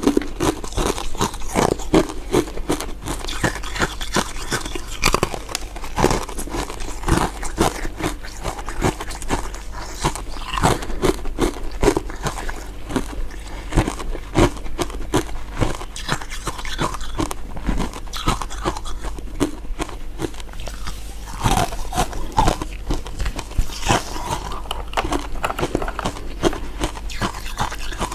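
Close-miked biting and chewing of crisp, icy crystal dessert pieces: dense, irregular crunching and crackling, over a steady low hum.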